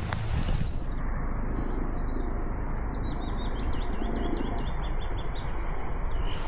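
A small songbird singing: a quick run of short, high notes from about two seconds in until just past five seconds, over a steady low background rumble.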